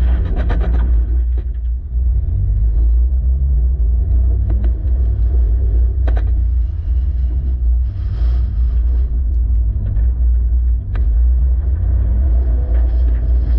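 Toyota 86's engine pulling hard on a rallycross run, its pitch rising twice as it accelerates, over a heavy low rumble, with a few sharp knocks.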